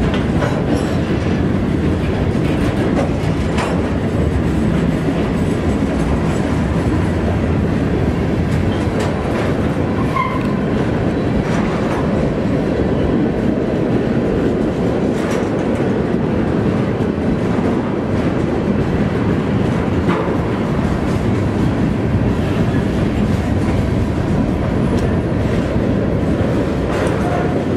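Freight train of boxcars, covered hoppers and tank cars rolling past close by. A steady heavy rumble of wheels on rail, with scattered clicks and clanks from the cars.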